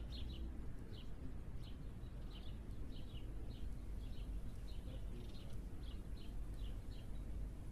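Birds chirping: short, falling chirps repeated about twice a second, over a steady low rumble.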